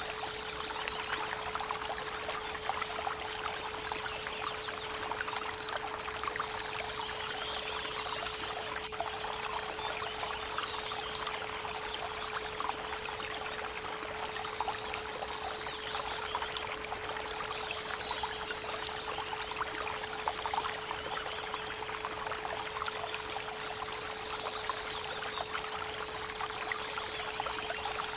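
Creek water running steadily, with birds trilling briefly now and then, over a steady 432 Hz pure tone held underneath.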